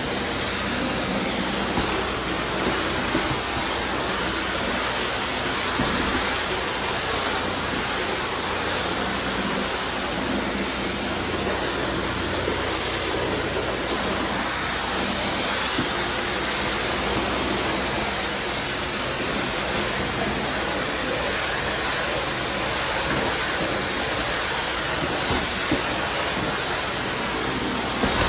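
Tile spinner rinsing and vacuum-extracting a tile-and-grout floor: a steady, loud rushing hiss of suction airflow and rinse spray.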